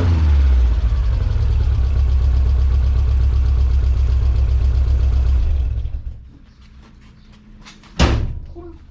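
Datsun Sunny truck engine idling loudly through a straight-pipe dual exhaust with a deep, steady rumble, then shut off about six seconds in. A single sharp thump comes near the end.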